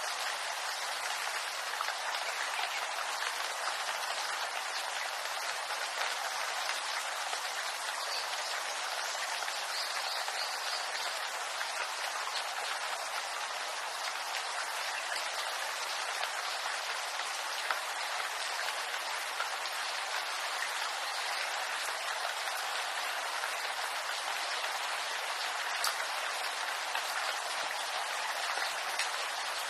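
Steady rain pattering on bamboo leaves, a dense even hiss of many small drops.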